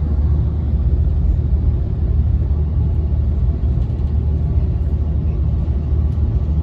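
Steady low rumble of an Amtrak Capitol Corridor passenger train running at speed, heard from inside the car: wheels on rail and body noise at an even level.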